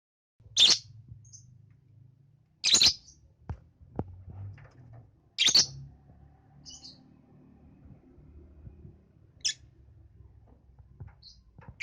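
Young lovebird giving short, sharp, high chirps, about one every two to three seconds, five in all, with a few faint clicks between them.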